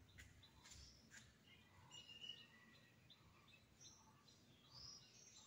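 Near silence with faint, scattered bird chirps and a few faint clicks in the first second or so.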